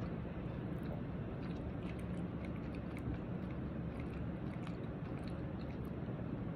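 A person chewing food, with small scattered mouth clicks over a steady low hum.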